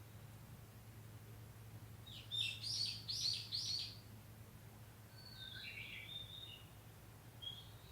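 Wild songbirds, among them a Japanese bush warbler, calling: a quick run of four bright falling notes about two seconds in, then a few clear whistled notes near the middle and again near the end. A steady low hum runs underneath.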